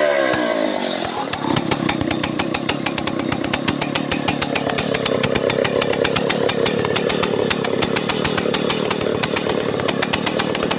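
Stihl 070 chainsaw's two-stroke engine winding down from a rev in the first moment, then running steadily at low speed with a rapid, even firing beat.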